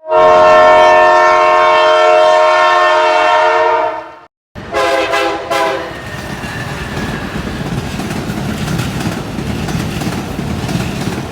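Passing train's horn sounding one long chord-like blast of about four seconds, then after a brief break a shorter blast of about a second. The horn is followed by the steady rumble and clatter of the train's wheels running over the rail joints.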